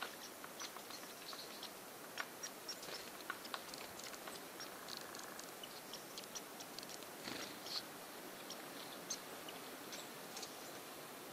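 Light, irregular taps of a female hairy woodpecker pecking at a suet chunk held in a hand, with a few short high chirps mixed in.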